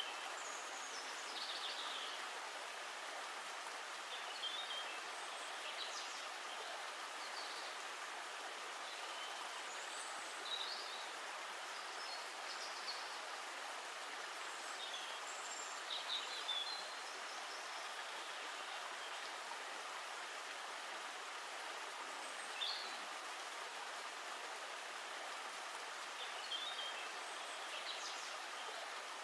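Steady running water, like a stream, with scattered short bird chirps every few seconds above it.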